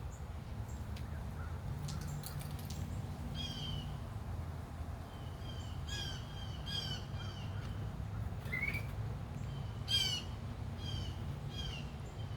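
A small bird giving about seven short, repeated calls, with a few sharp taps among them that fit its beak pecking at a mirror; the loudest call and tap come about ten seconds in. A steady low hum runs underneath.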